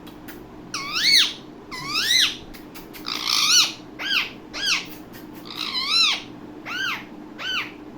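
Indian ringneck parakeet calling: a run of about eight loud, short calls about a second apart, each rising and then falling in pitch.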